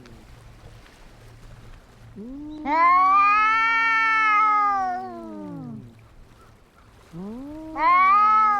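Domestic cats caterwauling as they square off to fight: one long drawn-out yowl that rises and then sinks in pitch, then a second yowl swelling near the end.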